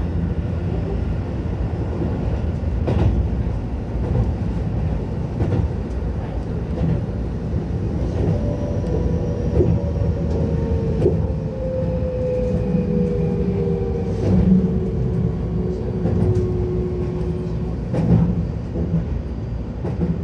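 Keihan 10000 series electric train running along the track: a steady low rumble with wheels clicking over rail joints now and then. Through the second half a faint whine slowly falls in pitch.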